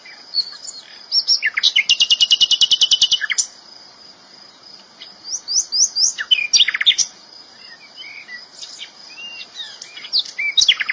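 Sikatan londo flycatcher singing energetically: sharp high chirps and whistles, with a fast rattling trill of about fifteen notes a second lasting about two seconds early on and another starting near the end.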